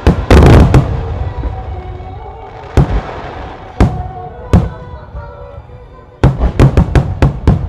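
Starmine fireworks shells bursting overhead: a rapid cluster of loud bangs at the start, three single bangs spread through the middle, then another fast volley near the end, each trailing off in rumbling echo. Music plays underneath.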